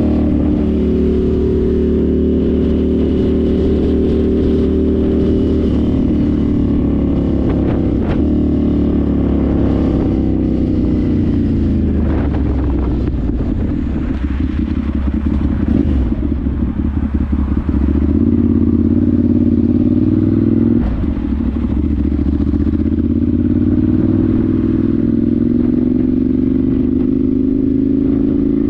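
Ducati Monster 796's air-cooled L-twin through twin Akrapovic silencers under way, its pitch rising as it accelerates and dropping back at gear changes and on the throttle-off. Around the middle, as the engine slows, there is an uneven crackling stretch, and there is a sharp break in the note a little after two-thirds of the way through.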